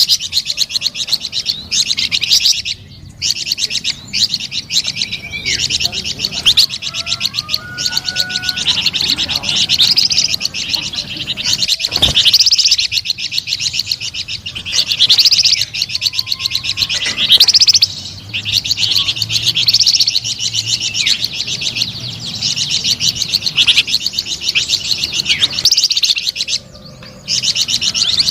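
Flamboyan songbird singing in a continuous, rapid, high chattering song, with quick whistled notes that slide up and down. It breaks off briefly twice. A single sharp click comes about twelve seconds in.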